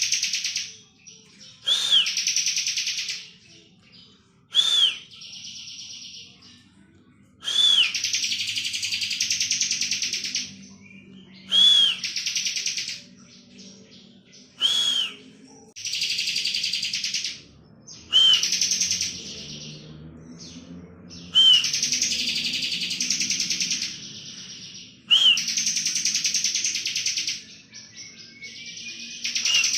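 Bar-winged prinia (ciblek) singing its 'ngebren' song. Each phrase opens with a short arched whistled note and runs into a rapid, dense buzzing trill lasting a second or two, repeated about every three to four seconds.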